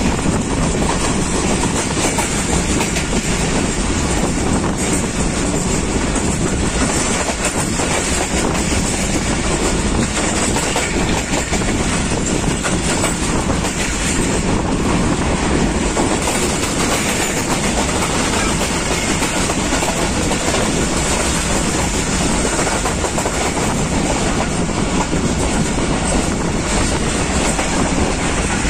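Passenger train running at speed, heard from inside a coach: a steady, unbroken rumble and rattle of the wheels on the rails.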